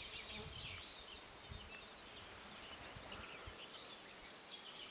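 Faint outdoor ambience with small birds chirping, mostly in the first half, and a few soft low thumps.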